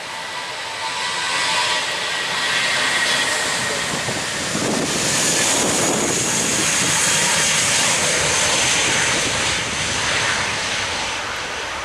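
Jet airliner passing low overhead: its engine roar swells over the first couple of seconds, stays loud through the middle with a high whine, and eases off near the end.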